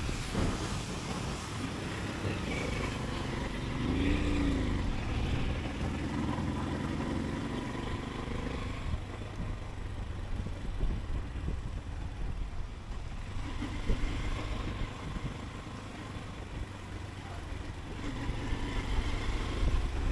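Motorcycle engine running while riding through city streets, over a steady rush of road and wind noise. About four seconds in, the engine pitch briefly rises and falls, and the engine picks up again near the end.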